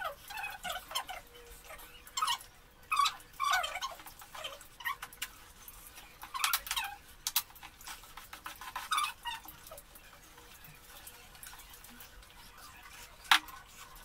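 People chewing and making mouth noises while eating by hand, in irregular short bursts, with one sharp click near the end.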